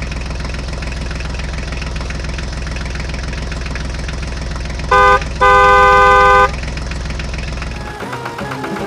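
Vehicle engine running steadily, with a horn honking twice about five seconds in: a short toot, then a longer blast of about a second. The engine sound stops shortly before the end, giving way to musical tones.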